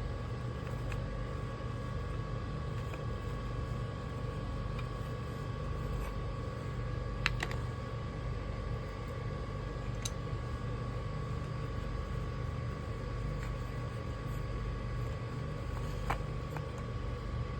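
A vehicle running: a steady low rumble with a faint steady whine. A few sharp clicks or knocks come about 7 seconds in, about 10 seconds in and near the end.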